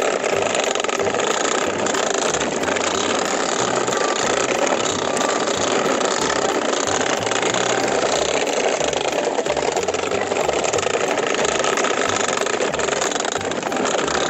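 Plastic toy dump trucks towed in a line on a string, their plastic wheels rolling and rattling over gravelly dirt in a steady, continuous noise.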